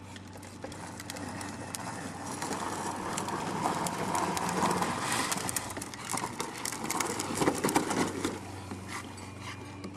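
Battery-powered Power Wheels ride-on toy truck driving, its electric motor humming while the plastic wheels roll over the ground with many small clicks and crackles. The sound grows louder from about a second in and eases off near the end.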